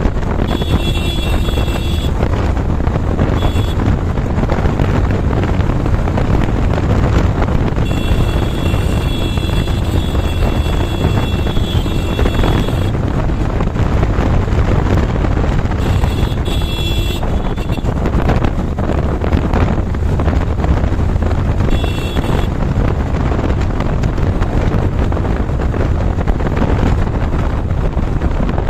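Heavy wind buffeting on the microphone of a moving motorcycle, with engine and road noise beneath it. A thin high whine comes and goes several times.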